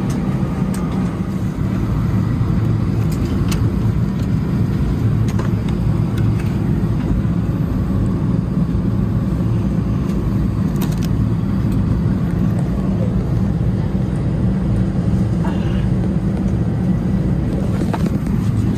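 Steady low rumble of a vehicle interior in motion, with a few faint clicks.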